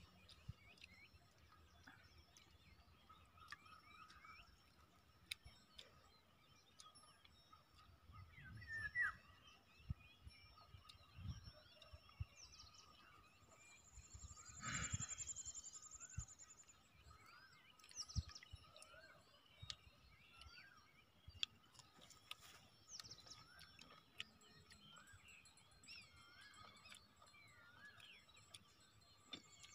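Faint outdoor ambience with small bird chirps scattered throughout and a high trill held for a couple of seconds around the middle, with a few soft knocks.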